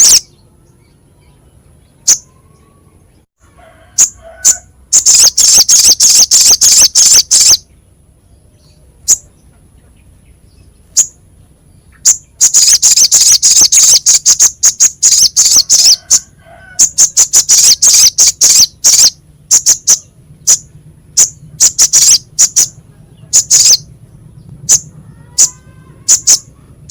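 Sogok ontong (spiderhunter) calling: harsh, high-pitched chips delivered in fast dense runs lasting a few seconds, with single sharp notes in the gaps between runs.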